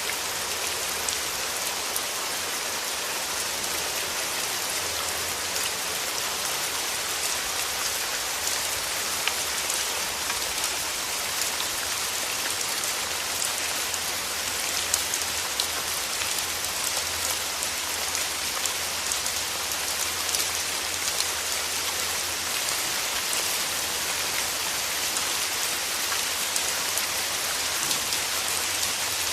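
Steady rain falling through forest trees: an even hiss with many scattered drop ticks.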